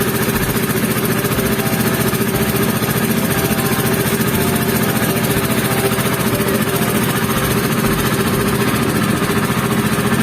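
A boat engine running steadily under way: an even, unchanging drone.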